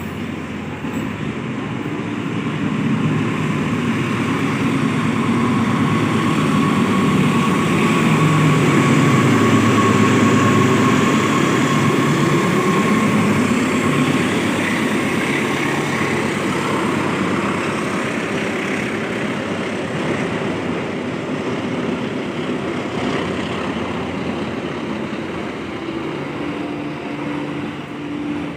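Train running straight through the station without stopping: the rumble of engine and wheels builds, peaks about ten seconds in, then slowly fades as the rest of the train goes by, with a steady high tone over the first half.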